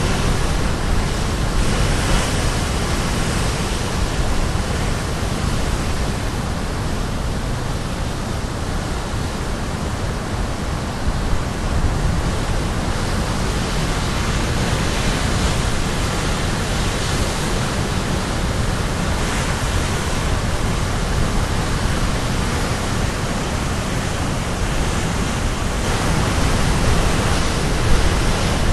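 Sea waves crashing and washing onto the shore in a steady, loud rush of surf, swelling a little as breakers come in a few seconds in, around the middle and near the end.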